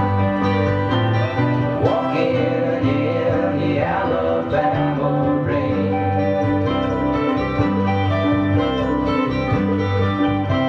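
Instrumental passage of a folk-country song: plucked acoustic guitars playing a steady accompaniment, with a lead line that slides up and down in pitch in the middle.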